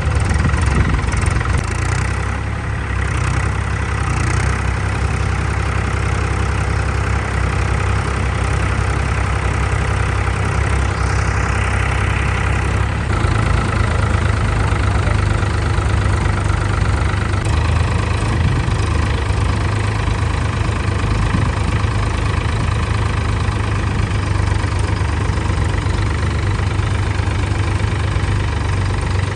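Diesel tractor engine running steadily, its deep note shifting a little about halfway through.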